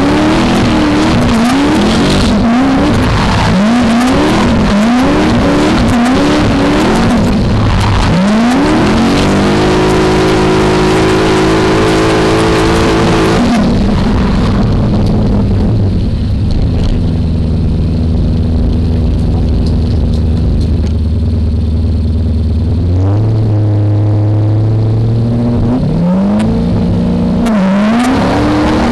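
V8 engine of a drift BMW E30 being revved hard, with quick repeated rises and falls in pitch for the first several seconds. It then climbs and holds a steady high rev, settles to a steady lower running for about ten seconds, and picks up revving again near the end.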